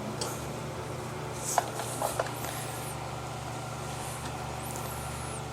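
C-clamp being screwed in slowly against a disc-brake caliper piston, pushing the brake fluid back. It gives a few light clicks and faint squeaks over a steady low hum.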